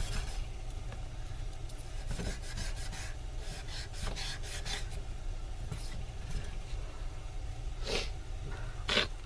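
Quick hand rubbing or scraping strokes in two short bursts, then two sharp clicks near the end, over a steady low hum.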